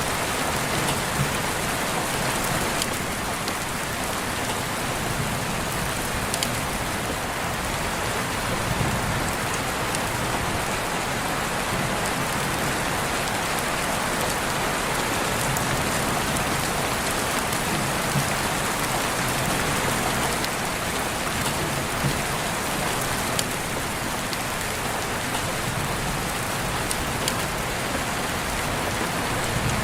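Steady rain falling on surfaces, an even hiss with scattered individual drops and patters.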